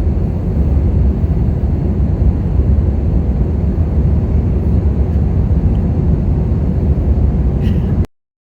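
Steady low rumble of a jet airliner's engines and airflow heard from inside the passenger cabin, cutting off suddenly near the end.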